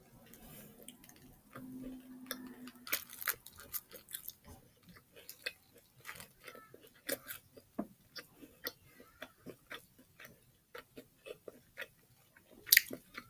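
Soft mouth noises of someone chewing a fried chicken sandwich: irregular small clicks and smacks, with a brief low hum about two seconds in.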